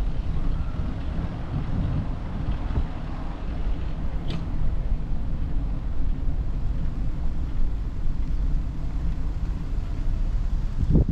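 Wind buffeting the microphone: a loud, fluttering low rumble throughout, with a brief faint high sound about four seconds in.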